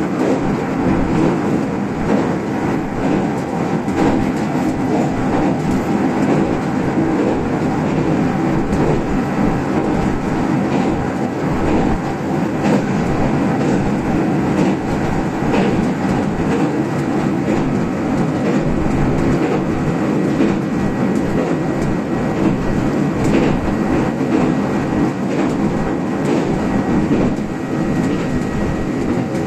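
Kintetsu express electric train running at speed, heard from inside the front car: a steady rumble of wheels on rail, with scattered clicks as the wheels pass rail joints.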